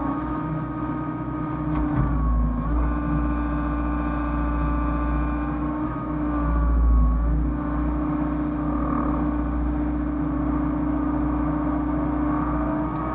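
Hyundai hydraulic excavator's diesel engine running steadily under working load, with a whine above it that shifts in pitch as the hydraulics move. The sound dips briefly about two and six seconds in and swells louder around seven seconds.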